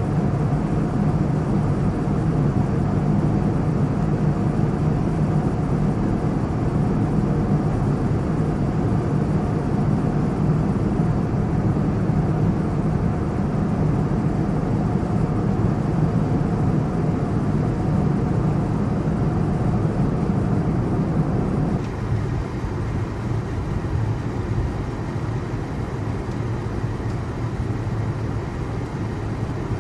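Steady cabin noise of a Boeing 787-9 airliner in flight: engine hum and rushing air. It steps down a little in loudness about two-thirds of the way through.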